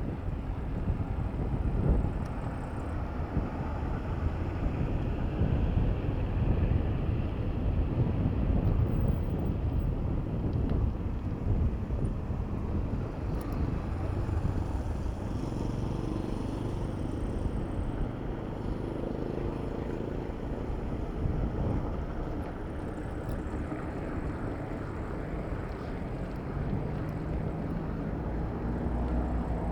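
Wind rumbling steadily on the microphone of a camera riding on a moving bicycle, mixed with the hum of motor traffic. A vehicle engine becomes audible briefly in the middle and again near the end.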